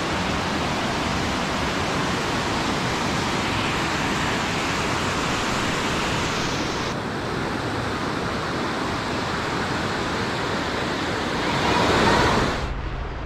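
Steady rush of flowing water, an even noise with no gaps. It swells briefly near the end and then cuts off abruptly.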